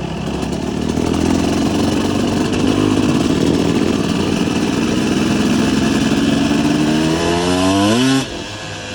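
Dirt bike engine running under throttle, growing louder over the first second and holding steady. About seven seconds in it revs up with a rising pitch, then cuts off sharply near the end, dropping to a lower, quieter running.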